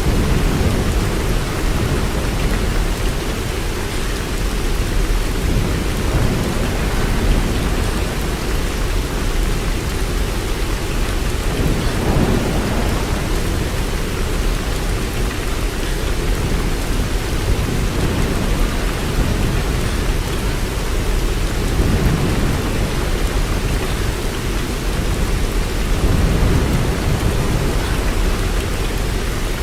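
Steady rain falling, an even hiss with most of its weight in the low range. A deep low swell rises and fades several times.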